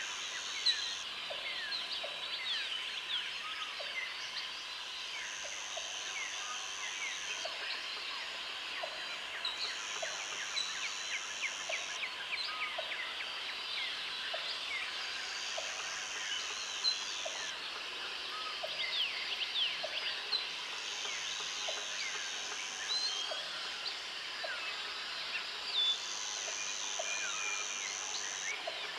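Jungle soundscape: a dense chorus of many birds calling and chirping, with a high insect buzz, like crickets, that comes in for about two seconds roughly every five seconds. A soft low call repeats about once a second underneath.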